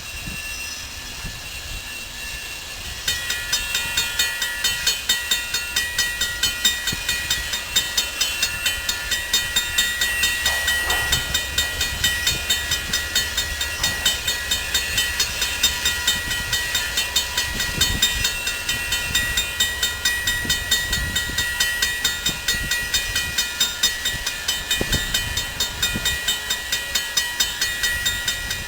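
A train passing, with a steady low rumble. About three seconds in, a rapid, evenly repeated high ringing starts, roughly three strokes a second.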